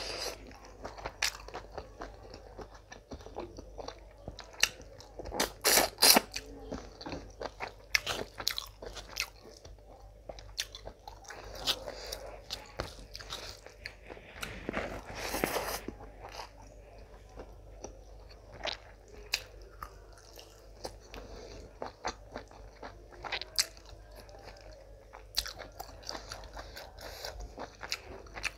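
Close-miked mukbang eating sounds: a person chewing mouthfuls of mutton biryani rice and mutton, with many sharp wet mouth clicks and smacks. There are louder bursts of chewing about six and fifteen seconds in.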